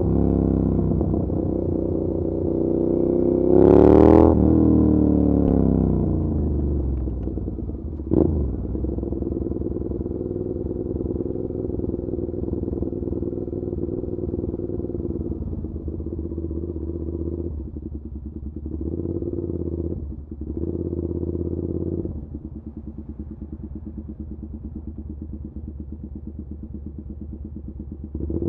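Suzuki SV650's V-twin engine through an SC Project exhaust, running on the road. Revs fall off, a quick rev rises and falls about four seconds in, and a sharp pop comes a few seconds later. It then runs at steady low revs with a few brief throttle dips, and goes quieter over the last several seconds.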